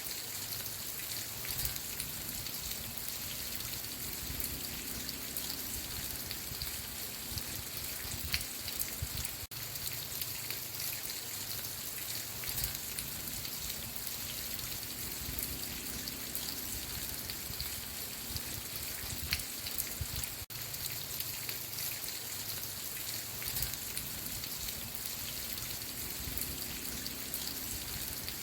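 Steady rain falling, a continuous hiss dotted with individual drop patters on a surface, broken by two momentary gaps about nine and twenty seconds in.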